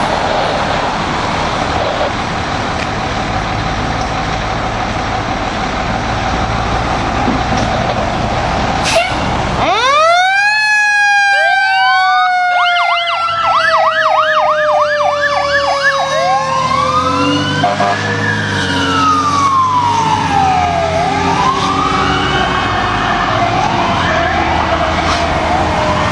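Fire engine siren response. For the first ten seconds there is only the truck's engine and road noise. Then a Federal Q mechanical siren winds up and slowly coasts down in pitch, while an electronic siren runs a fast yelp and then a slower wail on top of it.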